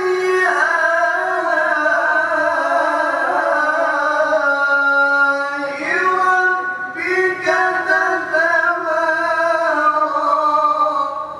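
A solo voice chanting Qur'anic recitation (tilawah) in long, ornamented held phrases. It breaks off briefly about six seconds in, starts a new phrase, and trails off near the end.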